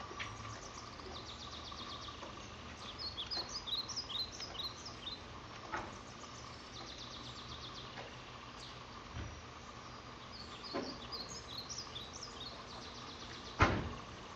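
Small birds chirping in the background over a steady faint hum, with bursts of quick high chirps in the first few seconds and again past the middle. A single sharp thump near the end is the loudest sound.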